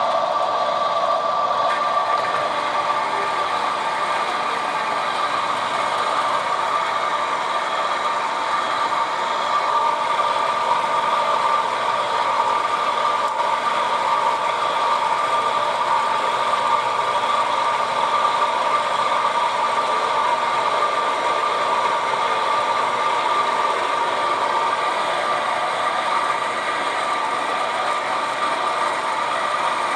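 Buffalo horizontal band saw running, its motor and blade drive making a steady mechanical whine.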